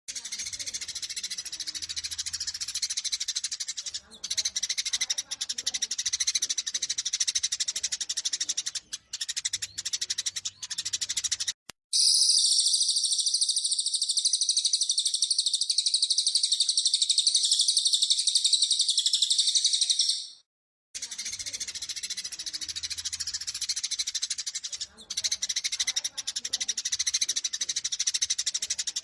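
Eurasian tree sparrows chattering in a fast, dense stream of chirps, the agitated calling of sparrows fighting. About twelve seconds in, a louder, higher, steadier trill takes over for about eight seconds, then after a brief break the chattering resumes.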